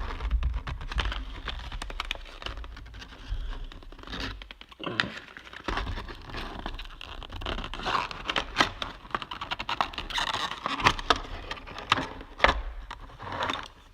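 Hands taking a small die-cast model airliner and its stand out of their box: the packaging crinkles and scrapes, with many small clicks and a few dull knocks.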